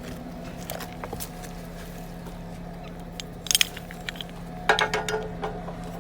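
A Jeep engine running steadily at low revs. From about three and a half seconds in come clusters of sharp crackling and crunching sounds.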